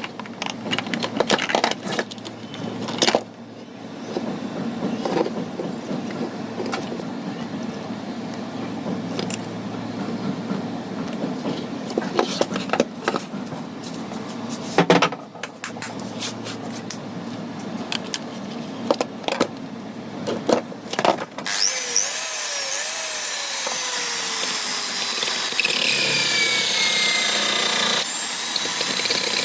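Irregular clicks, knocks and scraping from handling and working on a plastic toy with small tools. About 21 seconds in this gives way abruptly to a steady hiss with sliding whistling tones.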